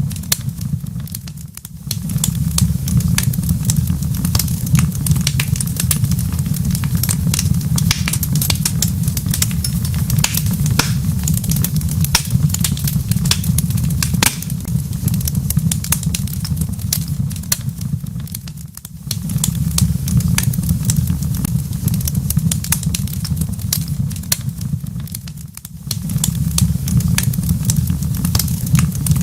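Wood fire crackling in a fireplace: dense, irregular sharp pops and snaps over a steady low rumble, dipping briefly three times.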